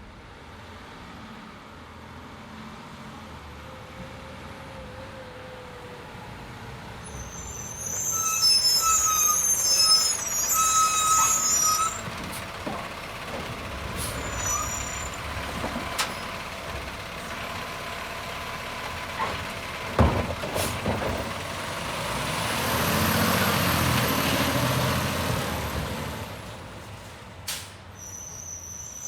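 Garbage truck on a curbside collection route, its diesel engine running throughout. About eight seconds in comes a loud, high brake squeal lasting several seconds. Later there is a sharp bang, then a few seconds of louder engine and hydraulic noise as a cart is lifted and emptied.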